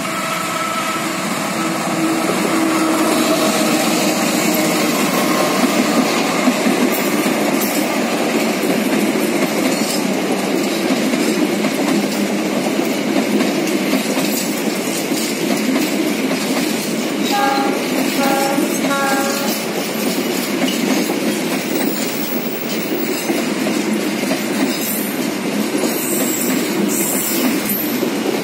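A diesel-electric locomotive-hauled passenger train (CC 206 locomotive) running past close by. Its long line of coaches keeps up a steady rumble and clatter of wheels on rails. A little past two-thirds of the way through come three short horn toots.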